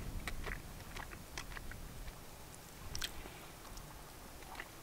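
A person chewing a mouthful of grilled kokanee salmon, with soft, irregular clicks and smacks of the mouth.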